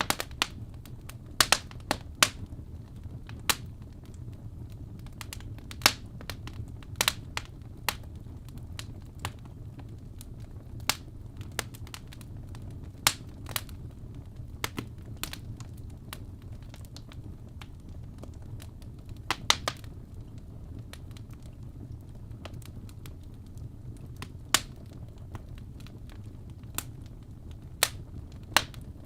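Wood fire in a fireplace burning, with a steady low rumble and irregular sharp crackles and pops from the burning logs.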